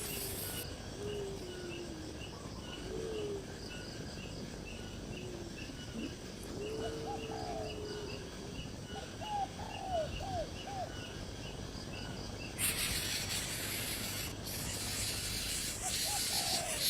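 Outdoor chirping of birds and insects: a high chirp repeating steadily two to three times a second, with scattered lower, swooping calls. About twelve seconds in, a loud steady hiss comes in over it.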